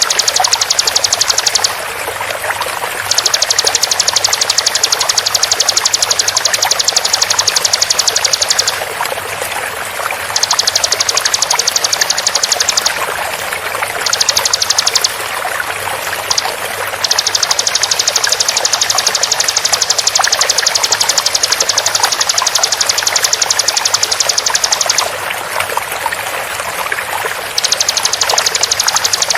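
Bar-winged prinia (ciblek) giving very fast, high-pitched trills in bouts of a few seconds, with short breaks between. Under them runs a steady rush of flowing water.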